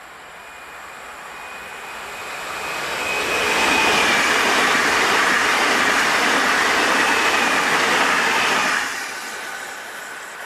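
PESA Dart ED161 electric multiple unit passing at speed. The rush of wheels and air grows as it approaches, with a thin high whine over it. The sound stays loud and steady for about five seconds as the train goes by, then falls away sharply near the end once the last car has passed.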